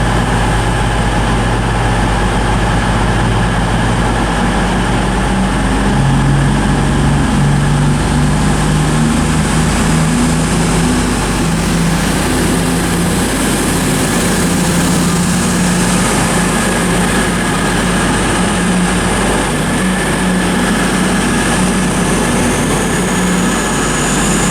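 Class 221 Super Voyager diesel-electric unit pulling away, its underfloor diesel engines running up: the engine note steps up in pitch a few seconds in and holds there.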